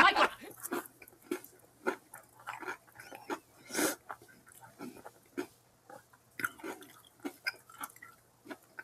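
Close-up chewing and wet mouth sounds of a man eating a chicken sandwich: irregular smacks and clicks, with one louder bite a little before four seconds in.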